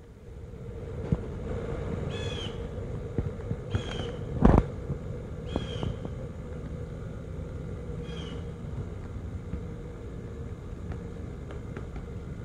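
A bird calling four times in short repeated calls over steady outdoor background noise with a faint low hum. A single sharp thump about four and a half seconds in is the loudest sound.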